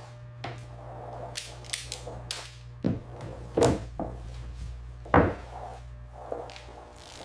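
A series of sharp knocks and clunks, about seven spread over several seconds and the loudest two in the middle, from panels and tools being fitted and secured, over a steady low hum.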